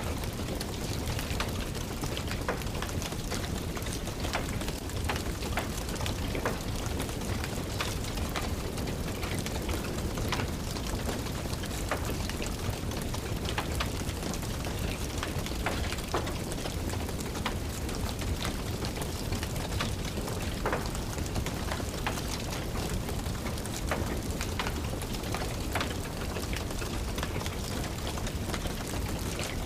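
Steady rain combined with a wood fire crackling, its small pops and snaps coming at irregular moments.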